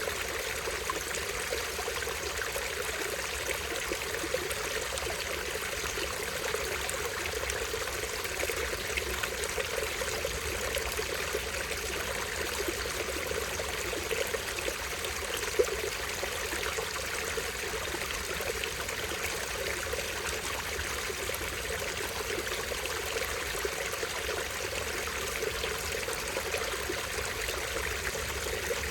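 Small stream splashing and trickling over a tiny waterfall, a steady even rush of water. There is one brief louder tick about halfway through.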